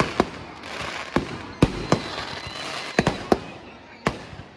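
Fireworks display: aerial shells going off in an uneven string of about six sharp bangs, with a crackling hiss between about half a second and three seconds in.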